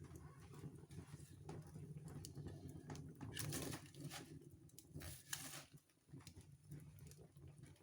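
Wood fire crackling in a fireplace: scattered small crackles over a low steady rumble of the flames, with two louder crackling bursts about three and a half and five seconds in.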